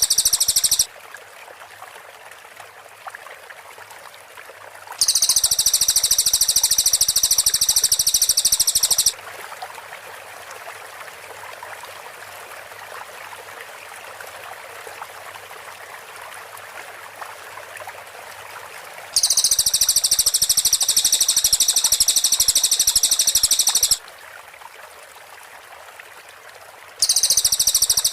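Cililin bird singing its rapid, high-pitched trills, the dense runs of notes known as "tembakan", in loud bursts of about four seconds with pauses between them, four times over a steady background hiss.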